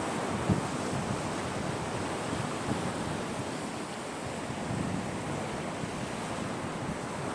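Sea waves breaking and washing up a beach in a steady rushing surf, with low gusts of wind buffeting the microphone.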